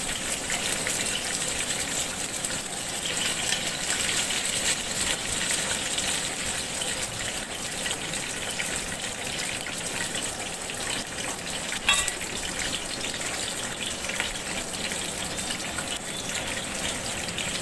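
Onions, green chillies and whole spices frying in hot oil in a metal pot: a steady crackling sizzle, with one sharper click about twelve seconds in.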